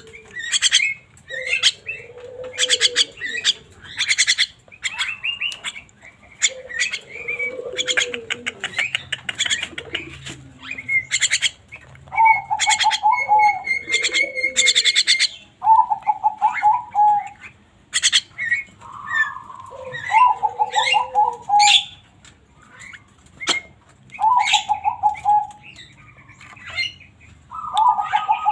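Javan myna calling and singing at length: harsh rasping and chattering notes mixed with short, repeated warbled trills, and some lower cooing notes, the busy calling of a bird in full voice.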